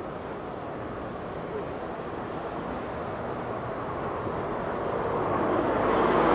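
City street traffic noise: a motor vehicle approaching, growing steadily louder over the last couple of seconds.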